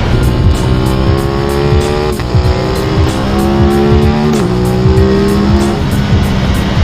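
Aprilia RS 660's parallel-twin engine accelerating hard through the gears: the revs climb and drop sharply at two upshifts, about two and four and a half seconds in, then the engine note fades under wind and road rumble.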